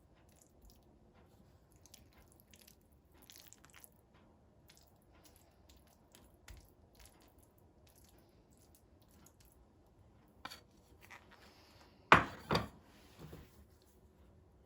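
Quiet handling noises: faint scattered clicks and taps, then two sharp knocks about half a second apart near the end.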